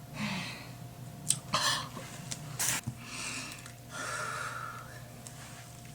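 A person breathing and sniffing close to the microphone: several short, hissing breaths and a few sharp clicks.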